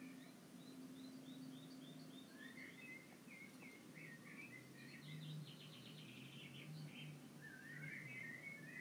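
Faint songbirds singing: a quick series of short falling notes, then warbled phrases and a rapid trill about halfway through, with another tumbling phrase near the end, over a faint low hum.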